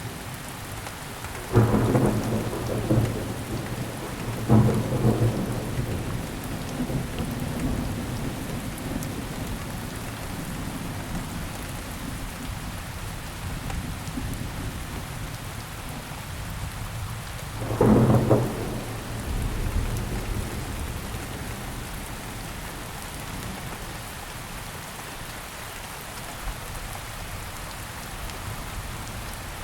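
Steady rain falling, with three rolls of thunder: two in the first five seconds and a third a little past the middle, each dying away over a few seconds.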